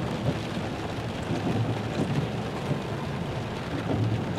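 Steady rain noise over the low rumble of a car, heard from inside the car: an even hiss with no distinct events.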